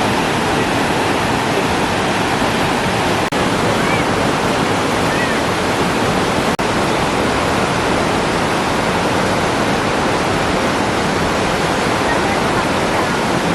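Large waterfall close by: a loud, steady rush of falling water, broken by two split-second dropouts.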